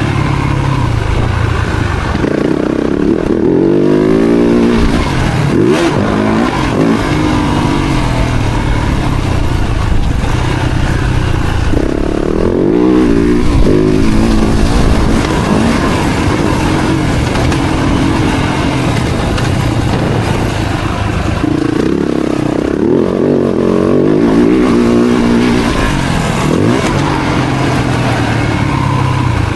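Motocross bike engines running hard, revving up and dropping back again and again as they shift through the gears. The climbs in pitch come a few seconds in, again around the middle, and again past the twenty-second mark, over a steady lower engine drone.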